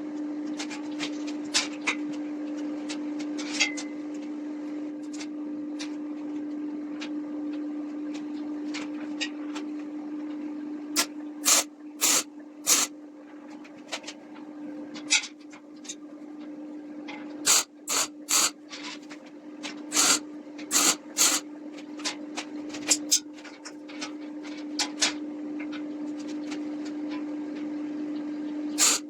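A steady low hum runs throughout, with scattered sharp knocks and clicks on top, some coming in quick clusters, typical of hand work with tools at a workbench.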